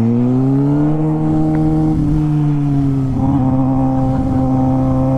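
Vehicle engine running at a steady speed, with a low, even drone that rises slightly in pitch in the first second and shifts a little about three seconds in.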